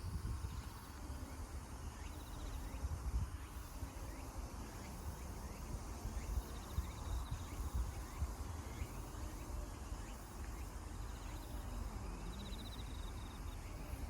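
Outdoor ambience of wind rumbling on the microphone, with short, faint insect trills recurring every few seconds.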